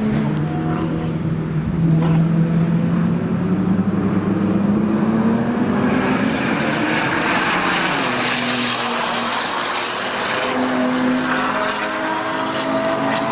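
Porsche 997 Turbo's twin-turbo flat-six, very loud through Milltek straight pipes, climbing in pitch as the car accelerates. About eight seconds in the car sweeps past and its note drops, then it carries on up the rev range.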